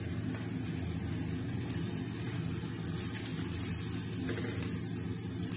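Browned onions and garam masala frying in ghee in a wok, a steady sizzle, with a few short scrapes of a spatula against the pan as they are stirred. A steady low hum runs underneath.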